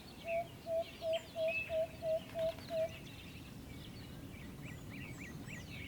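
Jungle ambience: a bird calls eight short, evenly spaced notes on one pitch, about three a second, then stops about three seconds in, over faint high chirping of other birds.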